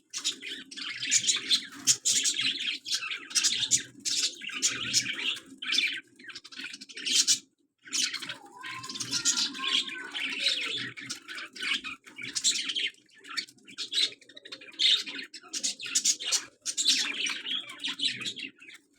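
Pet parrot chirping in quick, high-pitched runs that go on almost without pause, broken once by a short silence about halfway through.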